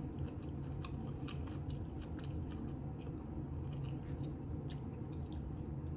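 A person chewing food close to the microphone: soft, irregular mouth clicks over a low steady background hum.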